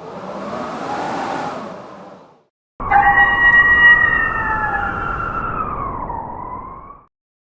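A gust of blizzard wind swells and fades, then a pack of wolves breaks into a chorus of overlapping, drawn-out howls at several pitches, some slowly falling and one rising. The howling starts abruptly and stops suddenly just before the end.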